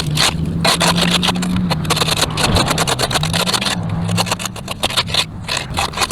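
Gas string trimmer running steadily at working speed, with rapid scraping and ticking as the cutting line strikes the sidewalk edge and debris.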